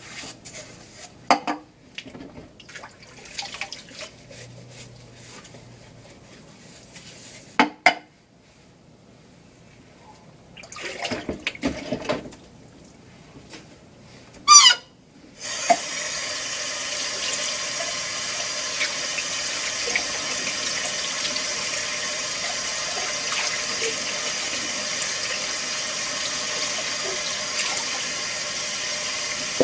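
A few clicks and knocks, then a steady rush of water starting about halfway through as the dishwasher fills.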